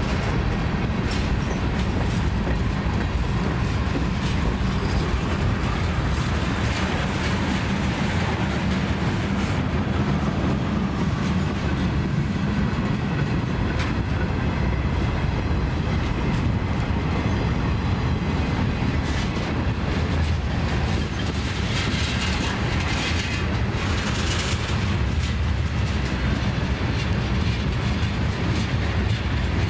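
Freight cars (covered hoppers, a boxcar and tank cars) rolling past close by: steel wheels clacking over the rail joints over a steady rumble.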